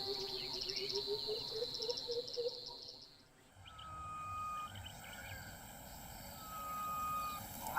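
Natural ambience of insects trilling steadily with rapid chirps, over a run of repeated low bird calls. About three seconds in it drops away and changes to a quieter ambience with a few thin, drawn-out whistled calls.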